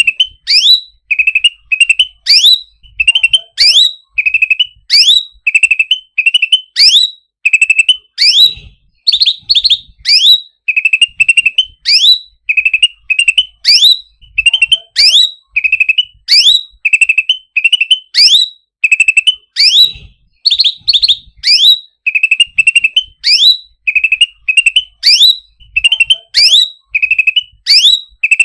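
Cucak ranting songbird calling over and over: a short buzzy trill followed by a sharp downward-sweeping whistle. The phrase repeats about once a second without a break.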